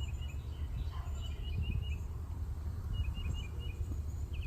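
A bird singing short runs of quick, high chirps, once in the first second and again about three seconds in, over a steady low rumble.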